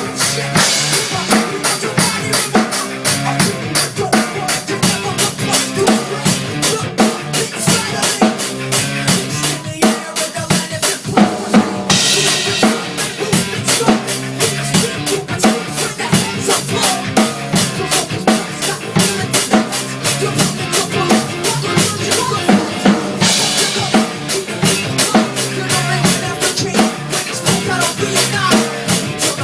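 Drum kit played fast and hard: kick and snare in quick, steady strikes, with two stretches of heavy cymbal wash, about twelve seconds in and again about twenty-three seconds in.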